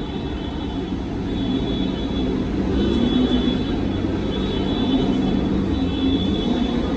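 A vehicle running steadily: a low engine rumble with a hum and a faint high whine, growing slightly louder.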